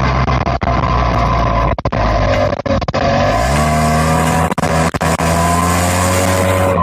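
Straight-piped car engine running hard. Its pitch climbs about three and a half seconds in, then holds steady, with brief cutouts in the sound several times.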